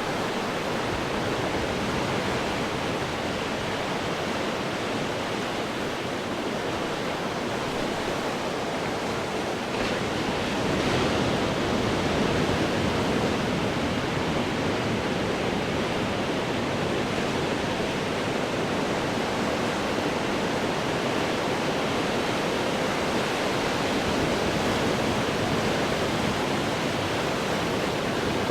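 Ocean waves breaking on rocks: a continuous roar of surf and churning water, swelling louder about ten seconds in as a bigger wave crashes.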